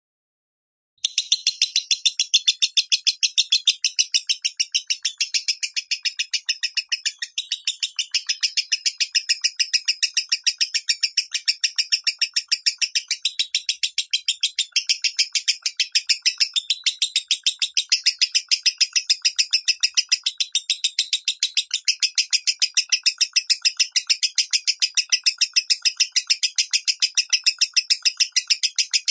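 Lovebird singing in the shrill "minor" voice: a fast, unbroken string of high chirps, several a second, starting sharply about a second in and running on without a pause.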